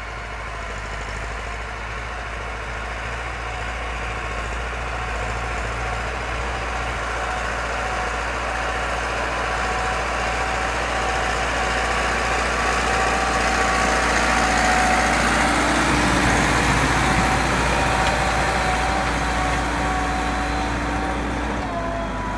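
IMT 577 tractor's diesel engine running steadily, growing louder over the first two thirds and easing slightly near the end.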